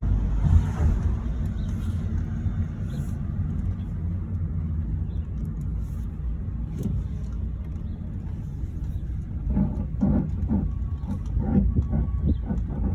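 Worn front wheel bearing on a 2010 Mazda3 grinding, heard as a steady low rumble. In the last few seconds it is joined by a rhythmic scrape about twice a second.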